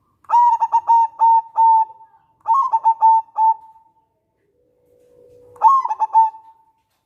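Zebra dove (perkutut) cooing: three phrases, each a quick run of short staccato coos on much the same pitch. The first phrase is the longest; the last comes after a pause of about two seconds.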